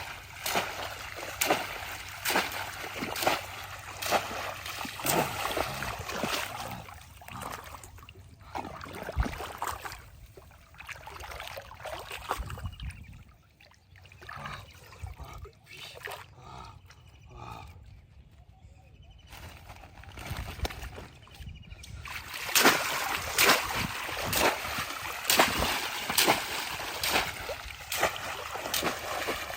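Shallow water splashing and sloshing in many short, irregular strokes, as people wade and grab for fish by hand. The splashing thins out and quietens in the middle, then picks up and grows louder for the last several seconds.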